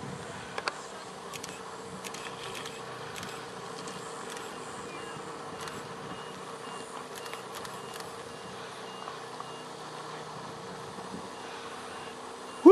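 A steady mechanical hum with a constant low tone, scattered faint clicks, and a run of faint, evenly spaced high beeps in the middle.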